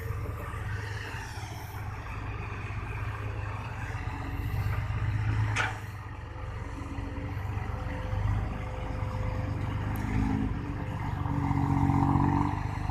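Diesel engine of a loaded six-wheel dump truck working under load as it climbs out of a dirt pit, running louder with rising pitch near the end. A single sharp click sounds about halfway through.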